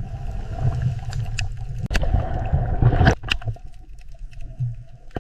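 Sound effect offered as a squid's sound: a low rumble with scattered clicks and pops and a faint steady hum that cuts off about three seconds in.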